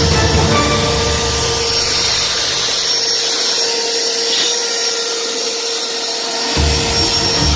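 Electric detailing power tool running steadily, a constant motor whine over a rush of air. A low rumble beneath it drops out from about three seconds in and returns near the end.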